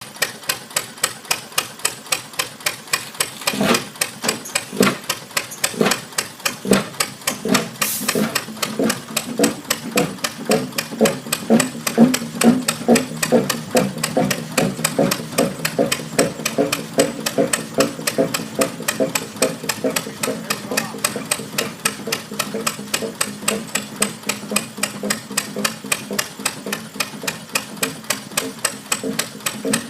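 Old Fairbanks-Morse engine running with a steady beat of sharp knocks, about three a second. From about four seconds in, a pulsing low drone from the running engine joins the knocks, and a brief hiss comes at about eight seconds.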